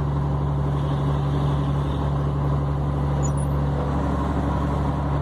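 Scania 113 truck's diesel engine running steadily on the road, a constant low drone.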